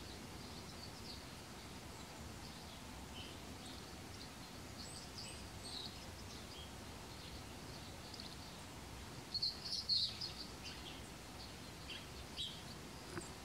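Faint, scattered chirps of small birds over a steady background hiss, with a brief flurry of louder chirps about two-thirds of the way through.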